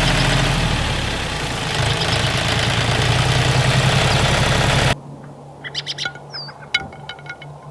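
Mini tractor running with a steady engine-like hum, cutting off abruptly about five seconds in. Then comes quiet, with a few faint chirps and plucked notes.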